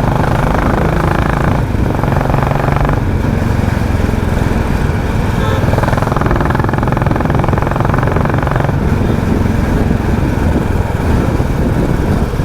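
Royal Enfield Classic 350's single-cylinder engine running through a loud aftermarket exhaust, a steady pulsing beat with a 'helicopter' sound, the tone shifting a few times with the throttle.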